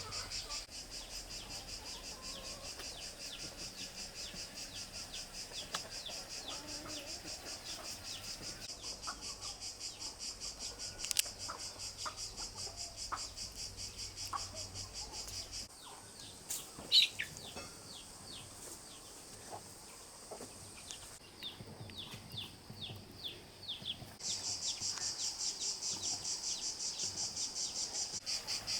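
Insects chirring in a steady, rapid pulsing trill that drops back partway through and comes back strongly near the end. In the middle stretch there is a run of short, quick bird chirps, and a couple of sharp ticks.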